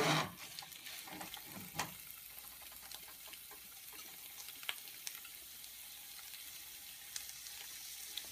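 Prawns frying in ghee and masala in a pan: a steady, faint sizzle, with a silicone spatula stirring near the start and a few short sharp ticks scattered through.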